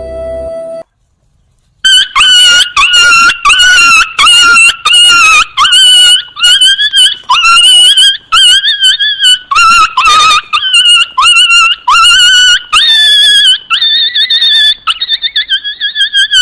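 An animal gives a rapid run of loud, high-pitched yelping cries, two or three a second, each bending in pitch. They start about two seconds in, after background flute music cuts off and a short silence.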